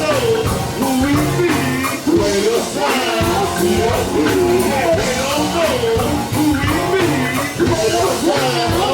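A live band playing, with a wavering lead melody over steady low bass notes.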